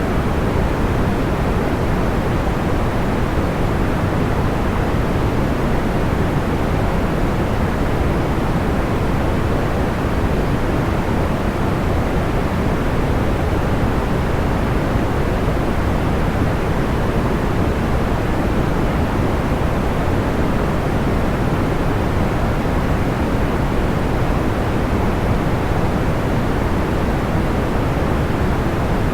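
Steady soft white noise weighted toward the low end, like pink noise: an even hiss and rumble with no pops or changes.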